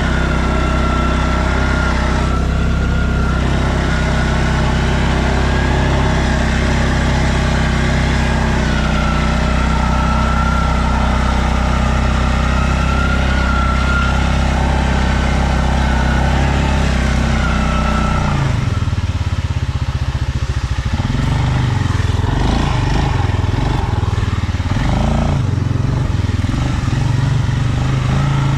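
Stels Leopard 650YL quad bike's engine running while riding, with a steady high whine over the engine note. About eighteen seconds in, the engine note drops and turns uneven.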